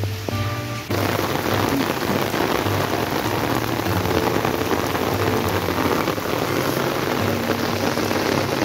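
Heavy rain falling steadily, a dense even patter of drops. A strummed guitar tune at the start cuts off abruptly about a second in, leaving only the rain.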